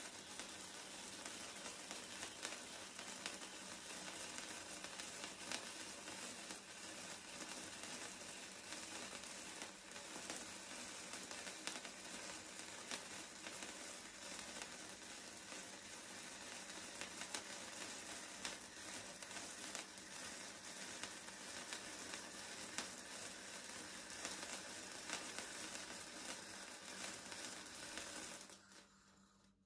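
Cake fountain firework burning: a steady hissing sizzle with fine crackling, which fades out and stops near the end as the fountain burns out.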